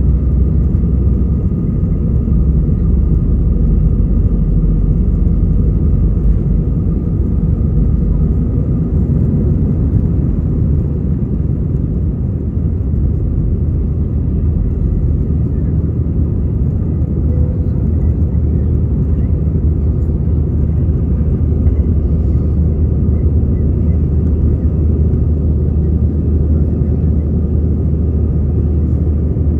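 Steady low rumble inside the cabin of an Airbus A320 during takeoff: engine noise and airflow, with a faint steady high whine above it.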